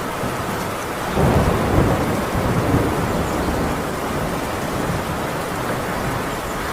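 Heavy rain hissing steadily on a tin roof; about a second in a low thunder rumble rises suddenly and fades away over the next few seconds.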